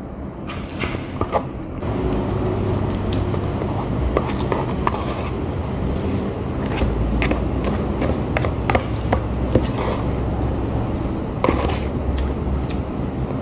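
A person eating spaghetti: chewing and wet mouth smacks, with scattered short sharp clicks, over a steady low hum.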